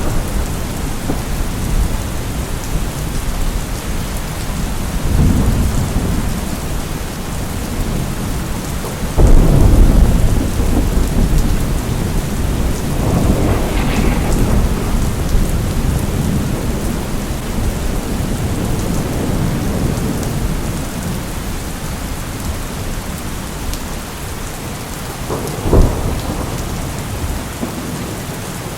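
Steady rain with thunder rolling through it: a sudden loud clap about nine seconds in, a long rumble through the middle, and a short sharp crack near the end.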